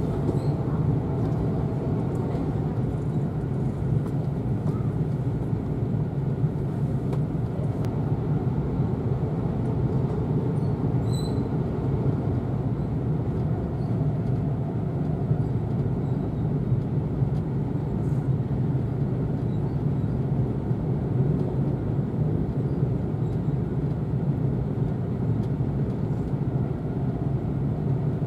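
Steady running noise inside the passenger cabin of an E4 series all-double-decker Shinkansen on the move: a constant low rumble of the train rolling on the rails, with no distinct events.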